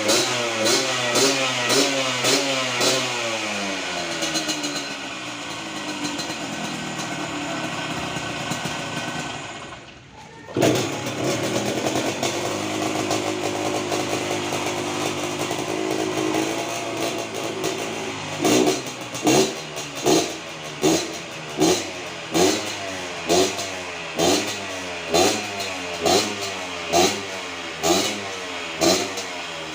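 Yamaha DT 100 enduro with a swapped-in Yamaha RX Special two-stroke single engine, revved in quick throttle blips, dropping away briefly about a third of the way through, then running steadily before a regular series of throttle blips, a little under one a second, in the last third.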